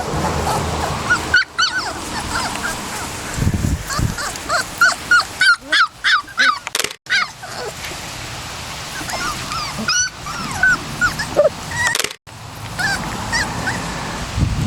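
A litter of three-and-a-half-week-old puppies whimpering and yipping, many short high cries overlapping, thickest in a rapid run around the middle and thinning out toward the end.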